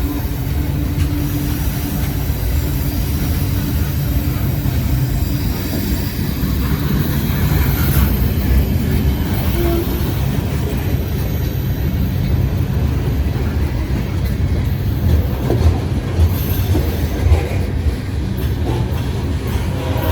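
Long Norfolk Southern mixed freight train rolling past: a steady loud rumble of freight cars with wheels clattering over the rails, and a few sharper knocks about three quarters of the way through.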